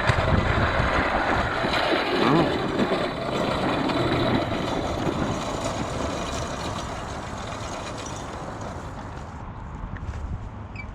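Minibike's 212 cc Ghost single-cylinder engine running under way, mixed with wind rush on a helmet-mounted microphone. The whole sound fades steadily over the second half as the bike slows.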